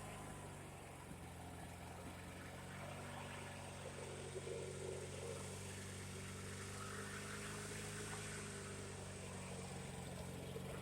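Mastercraft riding lawn mower's engine running steadily.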